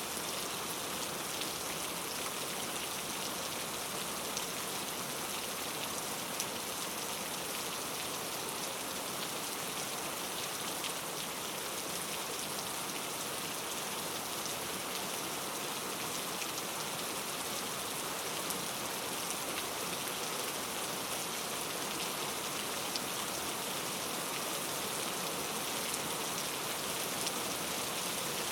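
Steady rain falling, a continuous even hiss with many small drop ticks and no thunder.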